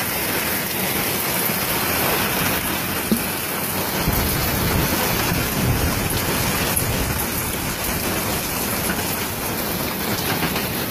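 Heavy rain with hail pelting a wooden deck and patio furniture: a loud, dense, steady patter and hiss. A low rumble joins about four seconds in.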